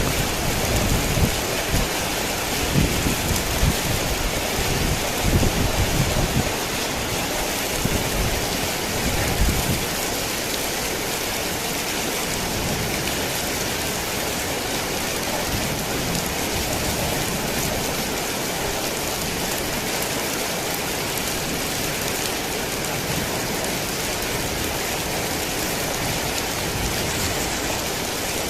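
Heavy rain pouring steadily, with a low rumble of thunder in the first few seconds that dies away about ten seconds in, leaving only the even rush of rain.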